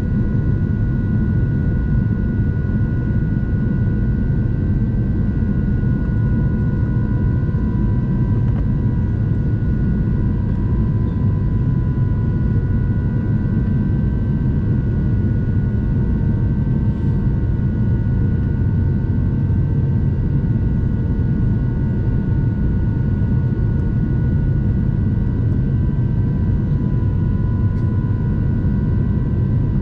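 Steady cabin noise of an Airbus A350-900 in flight: a low rumble of airflow and its Rolls-Royce Trent XWB engines, with a few steady whining tones above it.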